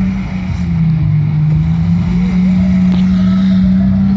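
Demolition derby cars' engines running loudly, the engine note sagging a little and then climbing again as the cars manoeuvre.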